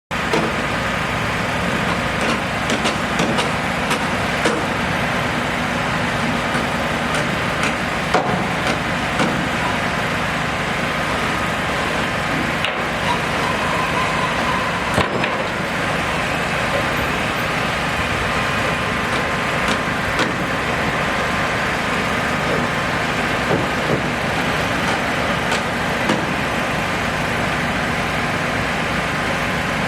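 Steady vehicle engine noise, a continuous rumble with scattered short knocks and clicks.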